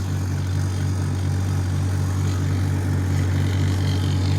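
Old gasoline tractor engine running steadily at low speed while driving, with an even pulsing beat about six times a second.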